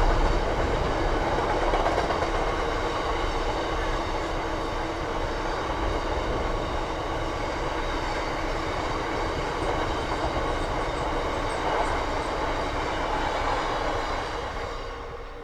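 Freightliner Class 66 diesel freight train passing on the main line, its wagons running by on the rails with a steady loud rumble that dies away near the end as the train clears.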